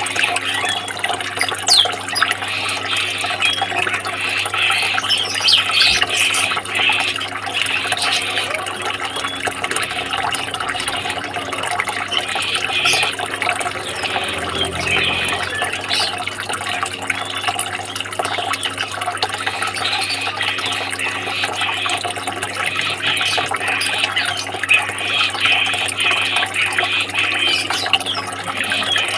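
Water running and splashing continuously, over a steady low hum.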